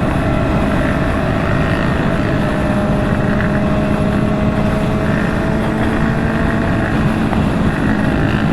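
Kawasaki ZX-6R inline-four engine at a steady cruise, holding an even note, mixed with constant wind rush from riding at highway speed.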